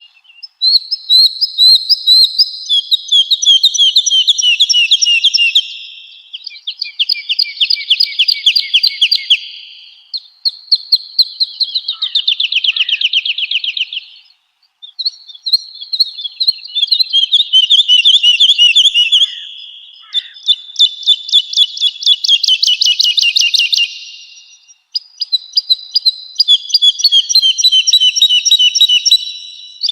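Woodlark singing: a run of loud trilled phrases, each a rapid series of repeated liquid notes that often fall in pitch. The phrases last a few seconds each, with short pauses between them.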